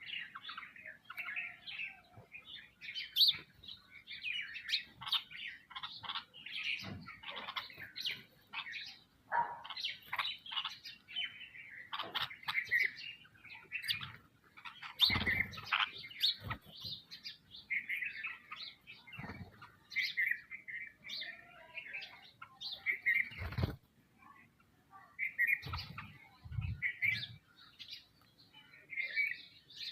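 A crowd of sparrows and other small birds chirping constantly in short, overlapping calls. A few low thumps come through, one about halfway and a couple more near the end.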